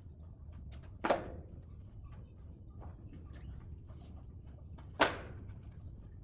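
Split oak firewood logs set down on a stack: two loud wooden knocks, about a second in and about five seconds in, with faint clicks in between.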